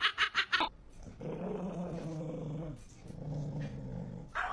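Dog growling: two long low growls, the first about a second in and the second after a short pause, following a quick run of short sharp sounds at the start.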